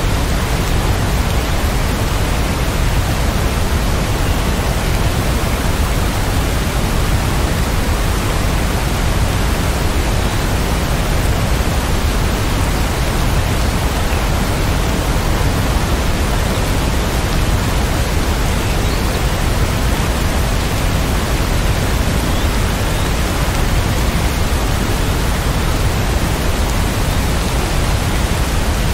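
Heavy rain falling as a steady, even rush of noise, with no separate drops or thunder standing out.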